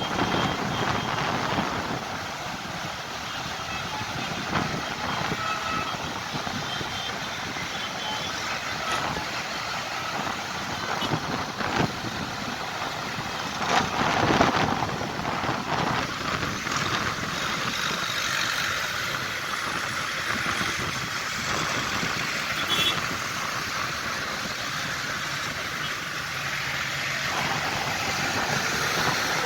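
Tractor engines running during a road run, with scattered knocks and a louder swell about fourteen seconds in as one comes close.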